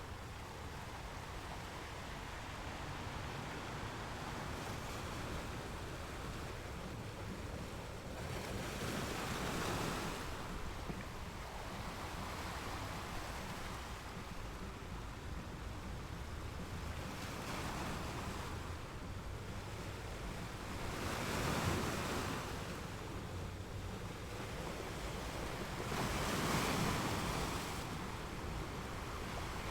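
Ocean waves washing on a shore: a steady rushing wash that swells four times as waves break, unevenly spaced a few seconds apart.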